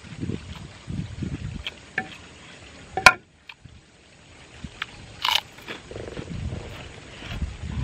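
A man chewing a mouthful of food close to the microphone, with wet mouth and lip sounds coming in short repeated bursts. There is one sharp crack just after three seconds and a brief crunch a couple of seconds later.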